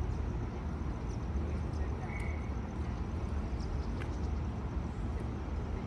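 Busy railway platform ambience: a steady low rumble with the murmur of a crowd of commuters and a few footsteps and clicks. A short high beep sounds about two seconds in.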